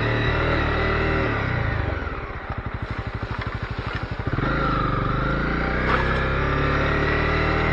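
Background music mixed with a Honda CB250R's single-cylinder engine. In the middle the music dips and the engine's rapid, even idle pulse comes through.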